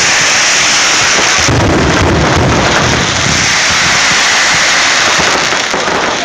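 Dense fireworks barrage: many crackles and bangs run together into one loud, continuous rumbling hiss, with a heavier low rumble about two seconds in.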